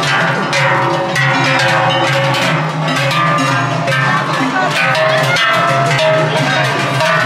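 Many large Swiss cowbells ringing and clanging together continuously, a dense jangle of overlapping metallic strikes.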